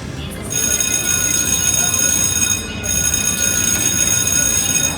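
Slot machine's electronic sound effect: a loud, steady chord of high tones that starts about half a second in, stops briefly near the middle, then resumes, over casino background noise.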